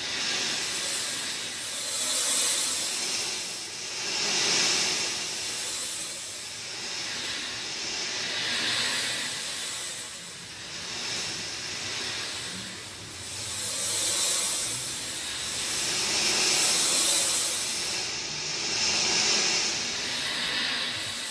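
Steady rain noise, a dense hiss that swells and eases every couple of seconds.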